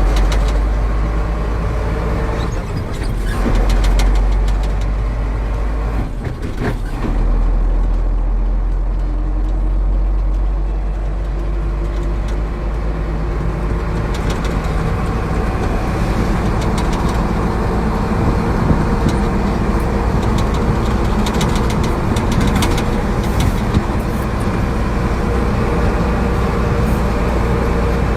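Truck engine running steadily, with a strong low hum.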